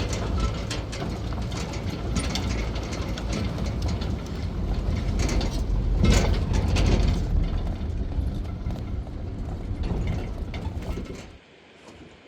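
Mechanical rattling and clattering over a low rumble, which cuts off suddenly near the end.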